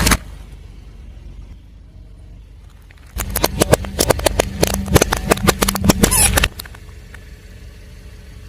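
A car tyre rolling over and crushing brittle objects: about three seconds of dense cracking and snapping over a low engine rumble, starting about three seconds in and stopping abruptly.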